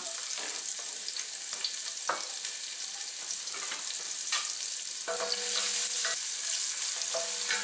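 Chopped onion sizzling in hot vegetable oil with cumin seeds in an enamelled pot, a steady frying hiss. A wooden spoon stirs the onion near the end.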